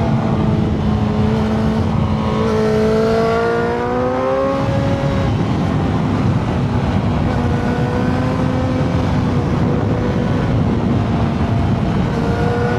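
Motorcycle engine running under way, its pitch rising gently and then dropping about four and a half seconds in before holding steady, over a constant rush of wind and road noise.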